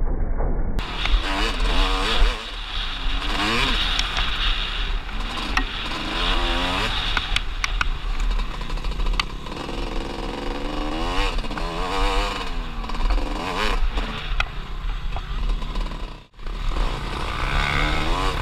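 Off-road motorcycle engine heard from a camera mounted on the bike, revving up and falling back again and again as the rider throttles and shifts along a dirt race track. The sound briefly cuts out about 16 seconds in.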